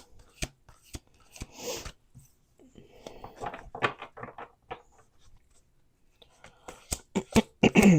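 A deck of oracle cards being shuffled and handled: irregular sharp flicks and snaps, bunched in a run about three seconds in and again near the end.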